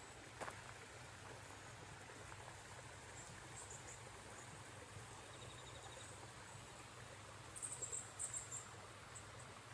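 Faint outdoor ambience: a steady hush with a few short, high chirps a little past the middle and again near the end.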